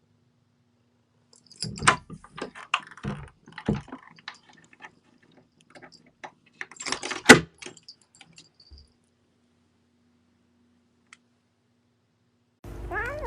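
A scattered run of light clicks, rattles and knocks, with one sharper knock about seven seconds in, then quiet.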